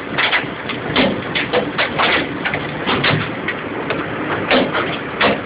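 A heavy downpour of large hailstones: a dense, steady rush broken by many sharp, irregular knocks as individual stones strike.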